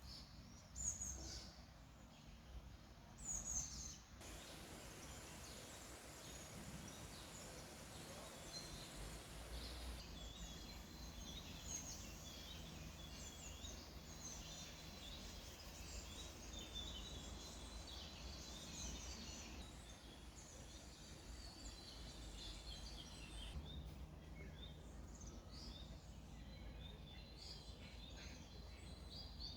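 Wild birds singing: many short high chirps and trills throughout, with two louder sweeping calls in the first few seconds, over a faint steady outdoor rush.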